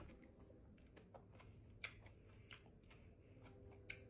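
Near silence with quiet closed-mouth chewing of a mouthful of fried catfish sandwich: a handful of faint mouth clicks, the clearest about halfway through and near the end.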